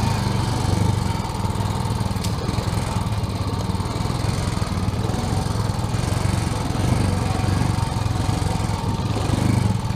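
Off-road bike engine running steadily while riding, a low, even engine drone.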